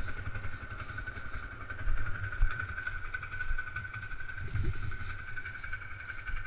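Polaris Sportsman 500 ATV's single-cylinder four-stroke engine running at low revs, a steady pulsing rumble, with a couple of louder bumps about two seconds in. A steady high-pitched whine runs above it.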